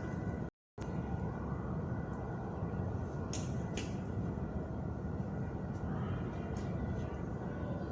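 Subway station ambience: a steady low rumble with a faint constant whine, and two short hisses about three and a half seconds in. The sound drops out briefly near the start.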